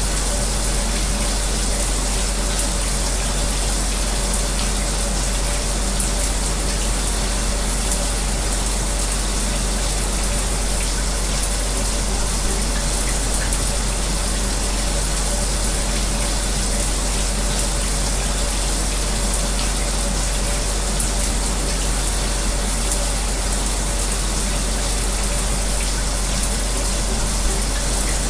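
A shower running steadily, its water spray hissing evenly, layered with the steady whir of an electric fan with a faint hum. It is one unbroken, unchanging wash of white noise.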